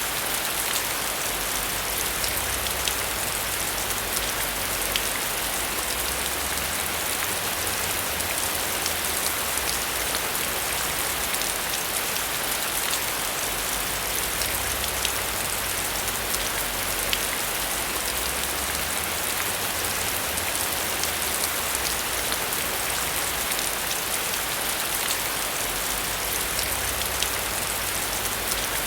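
Steady heavy rain falling on a surface, with many sharp individual drop ticks over an even hiss and a low rumble that swells and fades underneath.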